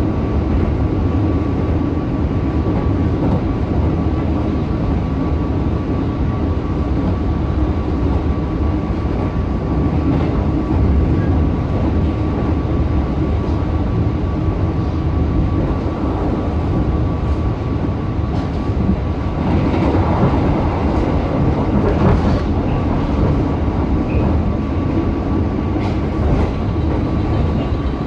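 Steady rumble of a moving passenger train, heard from inside the carriage as the wheels run along the rails. A thin, steady high tone runs through it, and it swells a little about twenty seconds in.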